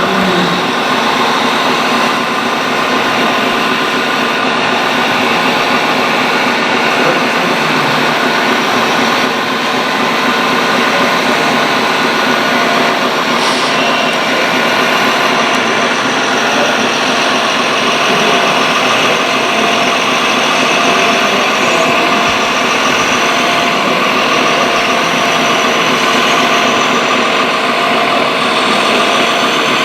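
Radio-controlled model excavators running: a steady mechanical whine of many held tones from their motors and hydraulic pumps.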